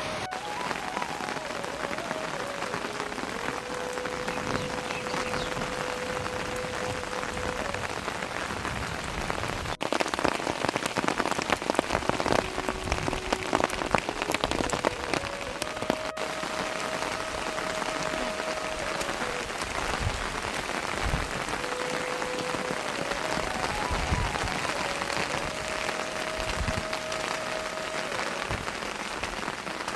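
Rain falling steadily, a dense patter of drops. It grows heavier and louder for several seconds in the middle, then settles back.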